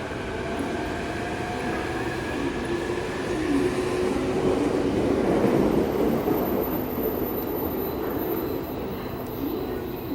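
Electric train running along the platform, a heavy rumble with the whine of its traction motors gliding in pitch, swelling to its loudest in the middle and easing off toward the end.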